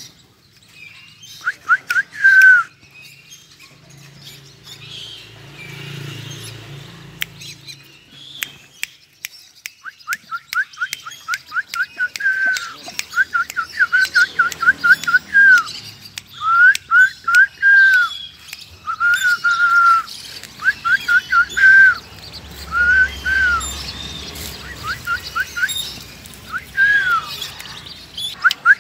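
A bird calling in bursts of short, sharp, quickly repeated arched notes: a brief run about two seconds in, then run after run from about ten seconds on.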